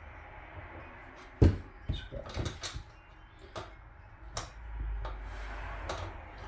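Wrench clicking and knocking against the outboard's lower unit as it is fitted onto a nut in a tight spot: a string of sharp irregular clicks, the loudest about a second and a half in.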